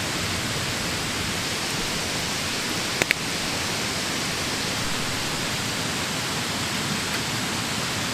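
Steady, even rushing hiss of background noise, with a quick double click about three seconds in.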